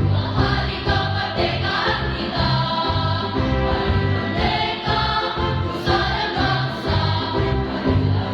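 Youth choir singing in parts over a backing track with a steady low beat of about two pulses a second.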